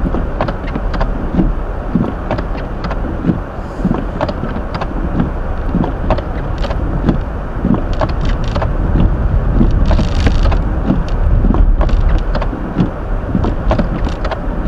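Hyundai Elantra's windshield wipers working in falling snow, heard from inside the cabin as a series of repeated knocks over a steady low rumble of engine and tyres on the snowy road.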